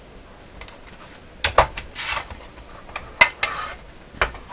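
Metal clicks and short scraping rasps as the sections of the radio's short telescopic antenna are pulled out to full height: four sharp clicks with two brief rasps between them.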